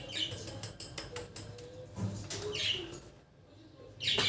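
Budgies chirping in short high calls: one at the start, one a little past the middle and one at the end, with a few small clicks in between.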